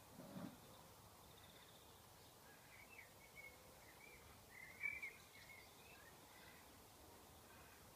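Faint birds chirping outdoors: a run of short chirps through the middle, the loudest about five seconds in, over quiet background noise. A soft low bump comes near the start.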